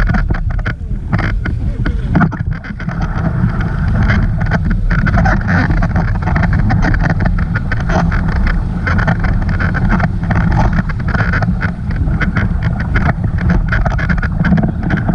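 Wind buffeting the microphone over the steady rush of a boat moving fast across water.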